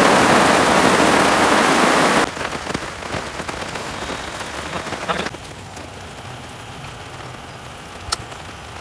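Heavy rain falling on a tarp, loud for about two seconds, then dropping suddenly to softer steady rain with scattered small taps. Near the end there is a single sharp click.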